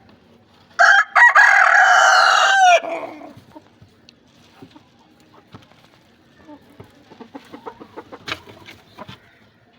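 A rooster crows once, loudly, for about two seconds starting about a second in. Later comes a run of short, quieter clucks and clicks from the caged chickens.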